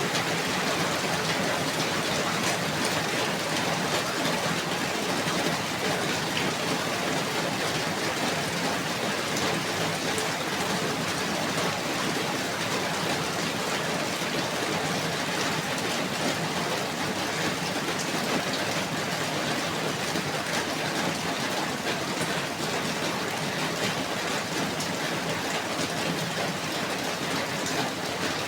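Steady rainfall: an even hiss of rain with scattered drops pattering.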